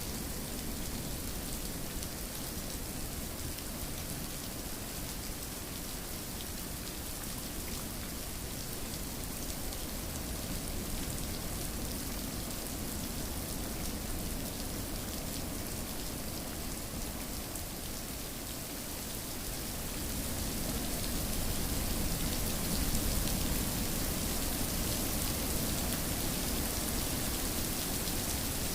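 Steady rainfall, dense patter of raindrops on a surface, swelling a little louder about two-thirds of the way through.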